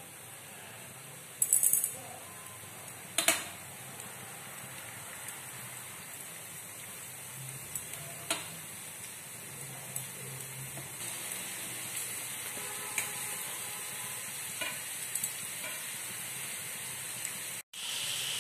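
Bitter gourd slices in gram-flour batter deep-frying in hot oil in a pan: a steady sizzle that grows louder as more slices go in. Sharp clicks and taps come now and then, loudest about a second and a half and three seconds in.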